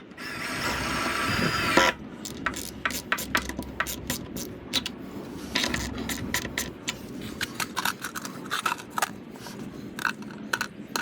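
A small power tool runs for about two seconds, rising in level before it stops sharply, followed by a string of short clicks and knocks from handling hardware.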